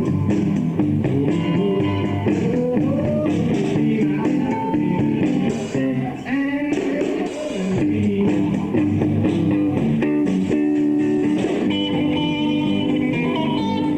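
Live bar band playing a guitar-led blues-rock number: electric guitars over bass and drums.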